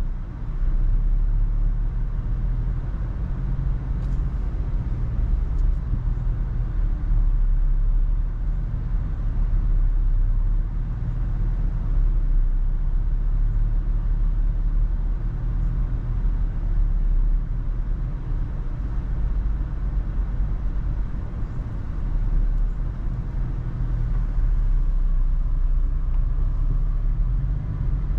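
Toyota FJ Cruiser on the move: a steady low rumble of engine, tyres and wind noise that swells and eases a little.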